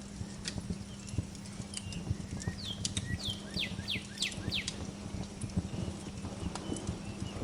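Wood fire crackling with irregular low knocks and sharp pops over a steady low hum. A songbird sings a run of five quick downward-slurred whistles about three seconds in, with a few softer chirps near the start and near the end.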